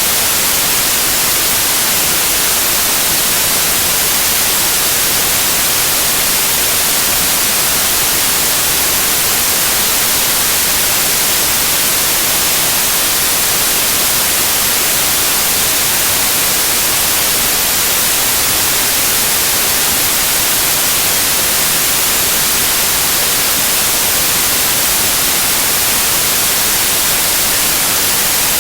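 Loud white noise: an even, unchanging hiss, brightest in the treble.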